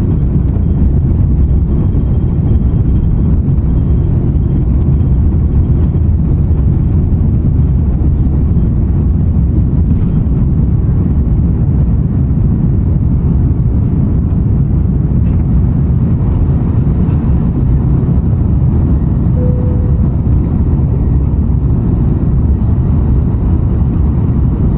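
Airbus A330-300 taking off, heard from inside the cabin: a loud, steady low roar of jet engines and airflow. A brief faint tone sounds about twenty seconds in.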